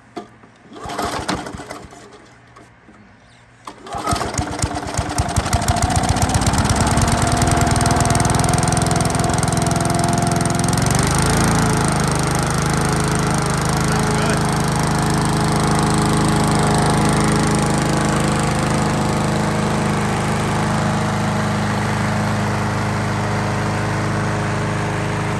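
Toro Recycler's flathead Briggs & Stratton single-cylinder mower engine starting on the pull: it catches about four seconds in, speeds up, and runs steadily, with a brief wobble in speed around eleven seconds. It is running with the air filter off after being badly flooded.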